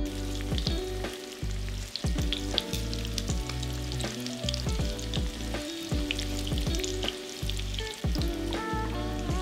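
Breaded eggplant strips frying in hot vegetable oil in a stainless steel pan, a steady sizzle with constant fine crackling. Background music plays underneath.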